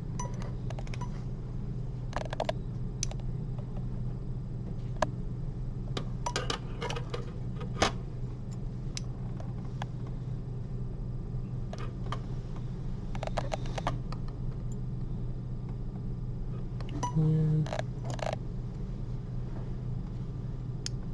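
Surgical instruments (needle holder and forceps) giving small, irregular metal clicks and clinks during suturing, over a steady low hum.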